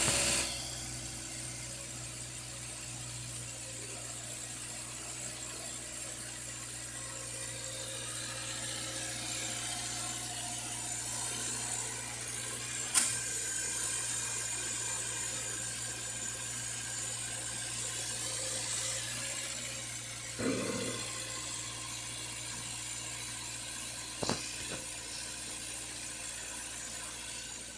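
Subaru Forester 2.5-litre flat-four engine idling steadily, a constant low hum with hiss above it. A sharp click about halfway through and two short knocks later on.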